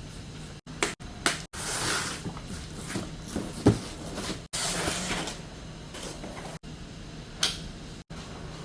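Car repair work sounds: a series of knocks and clunks of parts being handled, with two noisy stretches of about a second each, over a steady low hum. The sound is broken by several abrupt cuts.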